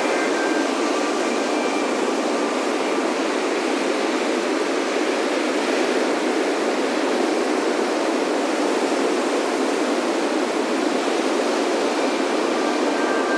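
Ocean surf breaking on a beach, a continuous steady wash of white noise, with a few soft wind chime tones ringing faintly in the first few seconds and again near the end.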